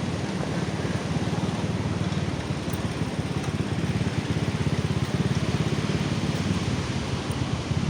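A small engine running with a fast, even putter, growing slightly louder.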